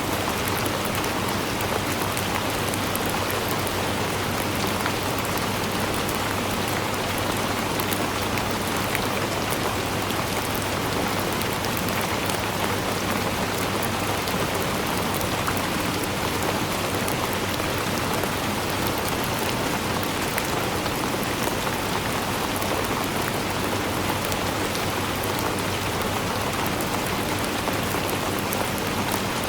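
Steady rain falling: a dense, even hiss flecked with many small drop ticks, unchanging throughout.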